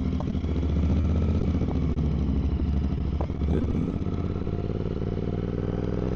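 Royal Enfield 650 parallel-twin motorcycle engine running at low speed, its note steady and rising slightly over the last few seconds.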